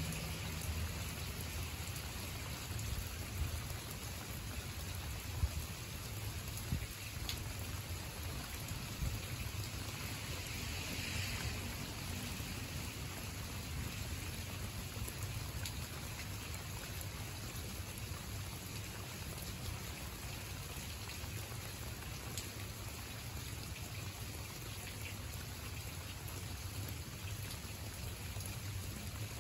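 Steady rain falling, with scattered single drops striking close by.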